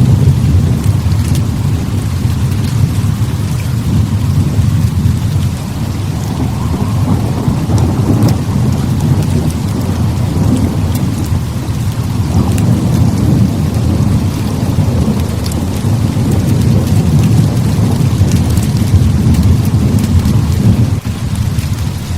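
Heavy rain pouring steadily, under a continuous low thunder rumble that swells and fades in long waves, with scattered small sharp ticks over the top.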